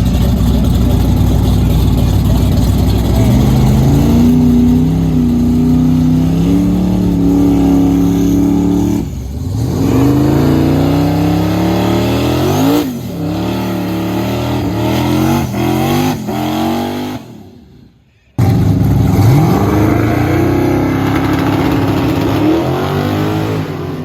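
Car engine revving, its pitch climbing and falling again and again. The engine sound fades away about seventeen seconds in, then starts again abruptly.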